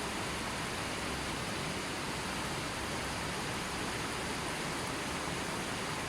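River water flowing steadily, a constant even rush with no changes.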